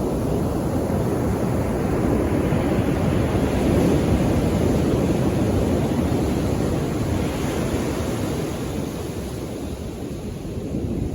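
Ocean surf washing onto the shore: the sound swells as a wave comes in, then ebbs away, and the next wave begins to build near the end.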